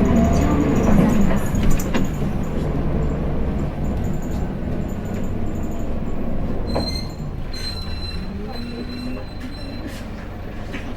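Hino Blue Ribbon City diesel city bus driving, heard from inside the cabin: engine and drivetrain running with pitch rising and falling, a few rattles and clicks, and a thin steady whine for a few seconds past the middle.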